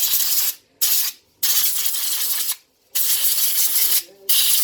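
Compressed air hissing in about five short blasts with brief gaps, blown through a moped carburettor's passages and jets to clean them out.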